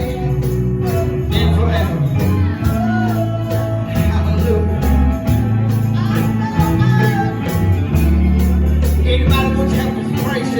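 Gospel church music with singing, deep bass notes and a steady beat, and a jingling tambourine.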